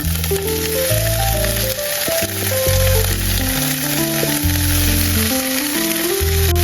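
Food sizzling steadily in a hot frying pan, with background music playing over it.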